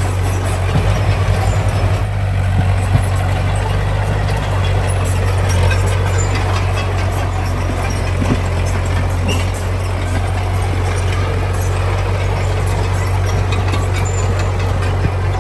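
Heavy diesel engine of construction machinery running steadily with a deep hum, with a brief run of rapid knocks about a second in.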